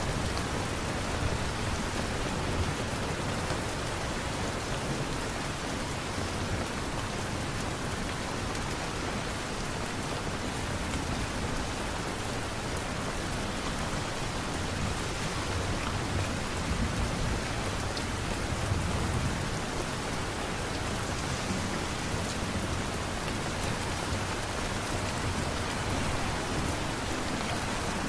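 Steady rain falling, an even, continuous hiss of drops on surfaces.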